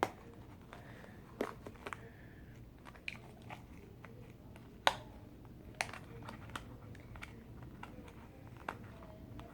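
Taped firework packaging being picked at and pulled by hand: scattered crinkles and sharp clicks of tape and cardboard, the loudest about five seconds in.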